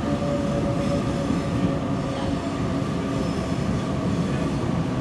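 Double-deck electric passenger train at a station platform: a steady low rumble and hum with a faint, steady high whine over it.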